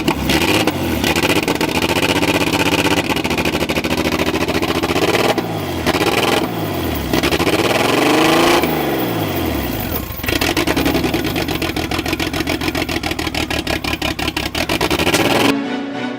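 Honda Civic four-cylinder engine running and being revved several times, its pitch sweeping up and falling back between steadier stretches.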